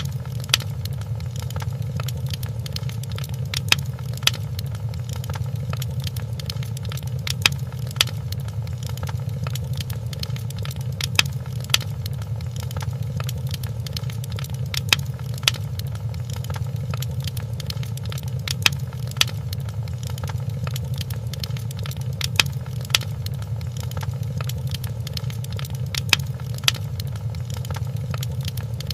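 Wood fire crackling in a fireplace: a steady low rumble under sharp pops, mostly in pairs about half a second apart that come round about every four seconds.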